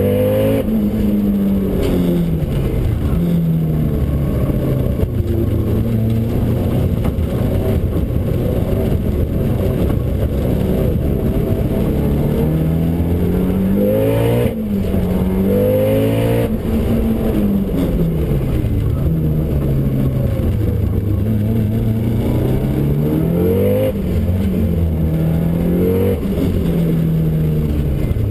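Tuned Subaru STI's turbocharged flat-four, making about 560 wheel horsepower on E85, heard from inside the cabin under hard driving. The engine pitch climbs and falls again and again as it pulls, lifts and shifts, with sudden drops at the gear changes.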